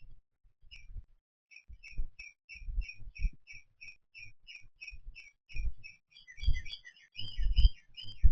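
A small bird repeating a short chirp about two to three times a second, with a second bird's chirps overlapping near the end. Irregular low thuds sound underneath and are the loudest moments, mostly in the second half.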